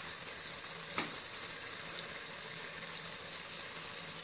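Chicken masala cooking in a pan: a steady sizzling hiss, with one sharp click about a second in.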